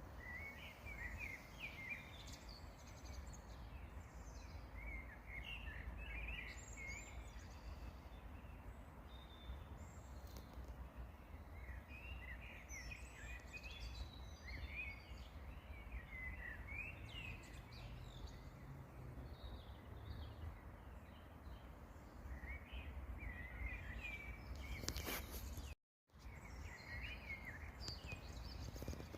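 Small songbirds chirping and twittering in short, repeated calls over a low steady background rumble, with a split-second dropout to silence near the end.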